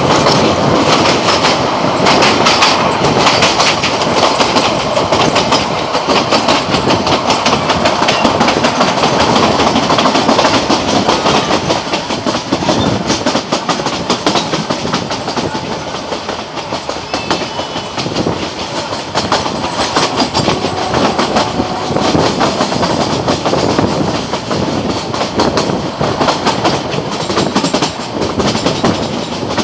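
Kangra Valley Railway narrow-gauge train running, its wheels clattering steadily over the rail joints, a little quieter from about twelve seconds in.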